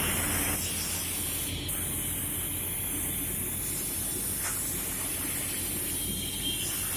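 Holzma panel saw running: a steady machine noise with a low hum under a strong hiss.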